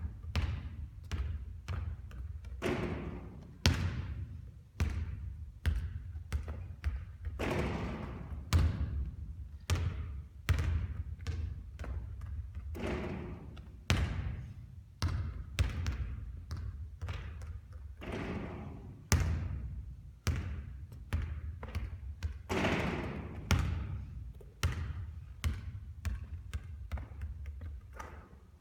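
Basketballs bouncing on a court during repeated three-point shooting practice: sharp bounces every second or two, with noisier swells of sound between them.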